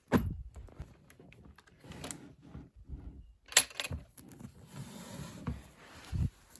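Rustling and scattered clicks and knocks of things being handled, with a sharp knock just after the start and another about three and a half seconds in.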